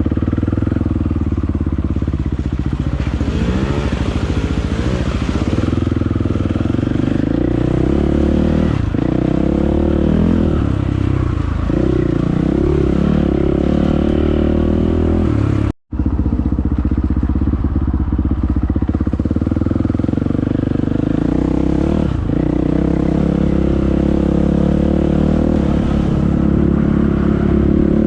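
Dirt bike engine running under way on a trail, its pitch rising and falling with the throttle. The sound cuts out for an instant about halfway through, then the engine carries on.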